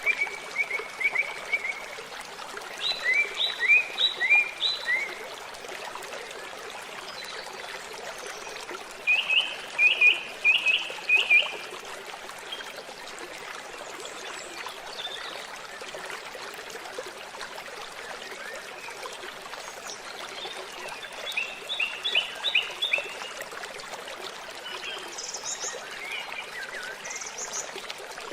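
Steady rushing of a waterfall, with a bird singing over it in short phrases of quick repeated notes. There are four phrases, with a long pause between the second pair and the last. A few brief high chirps come near the end.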